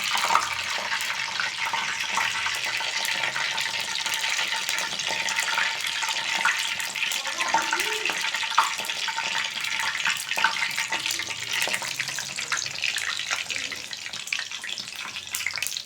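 Egg-coated bread slices frying, a steady sizzle with many small crackles and pops.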